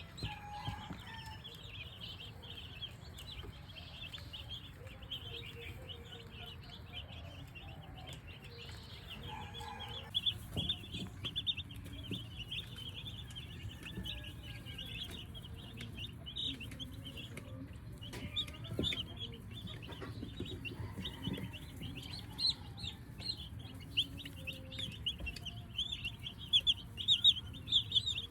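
A brood of young broiler chicks peeping continuously, many short high chirps overlapping, busier near the end, with a few faint knocks underneath.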